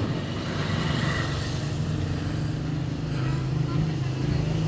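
Motor vehicle engine running close by with a steady low hum, growing a little louder near the end as it approaches.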